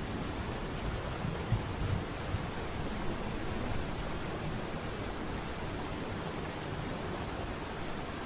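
Steady rush of falling water, with a faint, continuous high-pitched insect trill over it.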